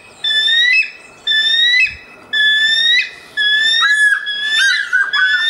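A bird's high whistled call, repeated about once a second, each a held note that jumps up in pitch at its end. Toward the end the notes come quicker and vary more.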